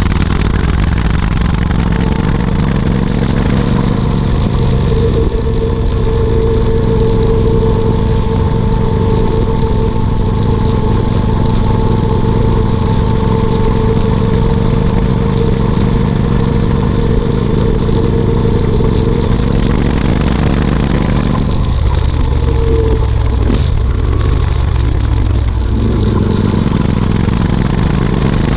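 Royal Enfield Interceptor 650's 648 cc parallel-twin engine running through a Motowings aftermarket exhaust while the bike is ridden at a steady pace. The note holds steady, changes for a few seconds about three-quarters through, then settles back.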